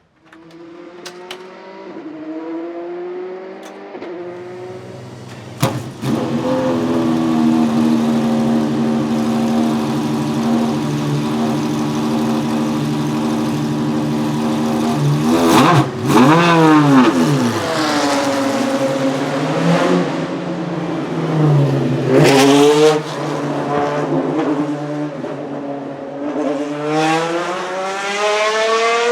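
Maserati MC12 GT1 race car's naturally aspirated V12 engine, growing louder over the first few seconds and then running at a steady pitch. Its pitch swoops sharply down and back up about 16 and 22 seconds in, and the revs climb near the end.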